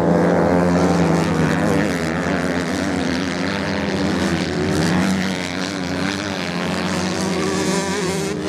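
Racing motorcycle engines running hard in a continuous drone, the pitch wavering and shifting.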